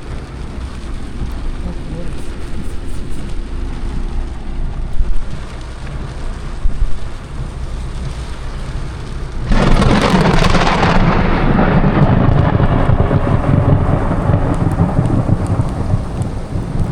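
Thunder: a low rumble at first, then about nine and a half seconds in a sudden loud crack of close thunder that rolls on into a long, heavy rumble.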